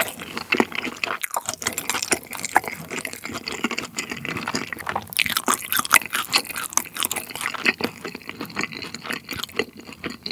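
A person chewing a mouthful of food with lips closed, close to the microphone, with many quick, irregular mouth clicks.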